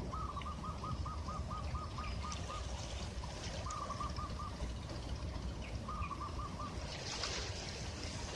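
A bird calling in quick runs of short, evenly repeated notes: a long run at the start, shorter runs about midway and near the end. Steady low surf noise runs underneath.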